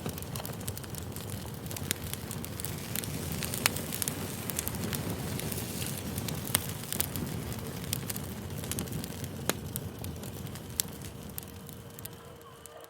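Campfire burning: a steady low rush of flame with irregular sharp crackles and pops of the burning wood.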